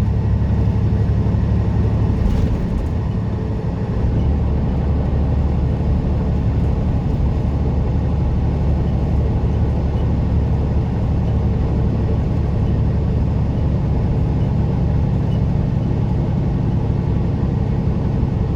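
Semi-truck engine and drivetrain running under way, a steady low rumble heard inside the cab. There is a brief dip in loudness about three seconds in. The transmission is failing and sounds rough in the higher gears.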